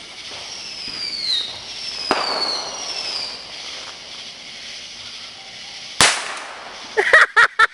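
Underwater fireworks going off: a hissing whistle falls in pitch three times in the first few seconds, then a single sharp pop about six seconds in.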